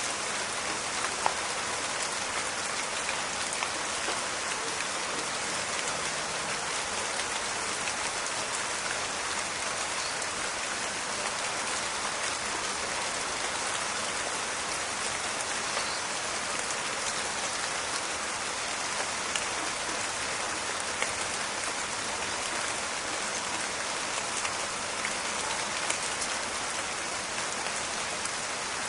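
Steady rain falling in a forest: an even crackling hiss with scattered sharper drop clicks.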